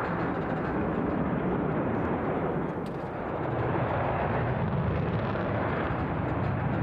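F-16 fighter jet engine noise during a display, a steady rush that dips slightly about three seconds in and then builds again.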